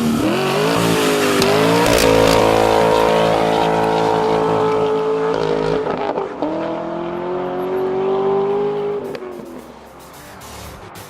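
A car engine at high revs under hard acceleration: the pitch climbs and holds, drops at a gear change about halfway through, climbs again, then falls away near the end.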